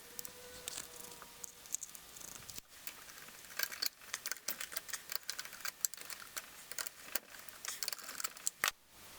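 Quick, irregular clicks and clinks of metal tools and parts being handled during hands-on engine work, with a few short scratchy bursts. The sound breaks off abruptly a couple of times.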